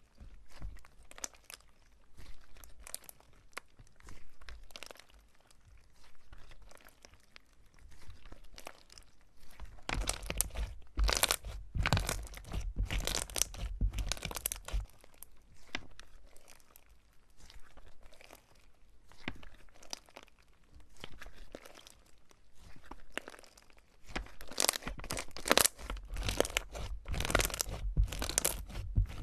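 Slime being squeezed and pressed by hand, giving crisp crackling and crunching pops in uneven runs, louder for a few seconds about a third of the way in and again near the end.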